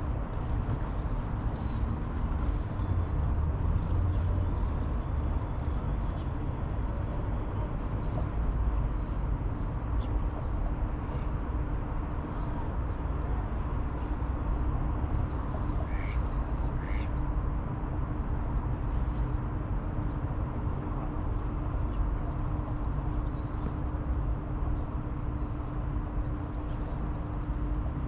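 Steady low outdoor rumble beside a city river, with faint small-bird chirps throughout and two short bird calls about sixteen and seventeen seconds in.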